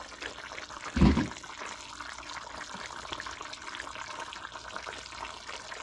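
A pot of chicken curry simmering, a steady fine bubbling and crackling, with one short, dull knock about a second in.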